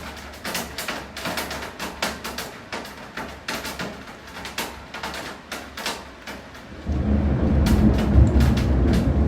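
Raindrops tapping irregularly on a hard surface, several sharp taps a second. About seven seconds in, a loud low rumble of thunder sets in and keeps going.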